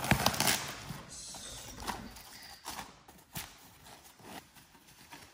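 Scattered light knocks and clacks of a part being handled and set down, several separate hits a second or so apart, the loudest near the start.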